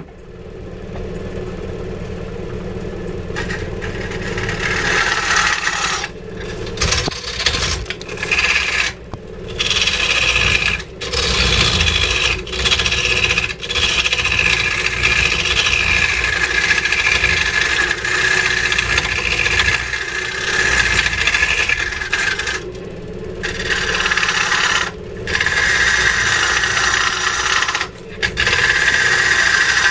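A tool scraping and cutting into wood in long passes broken by short pauses, over a steady low machine hum.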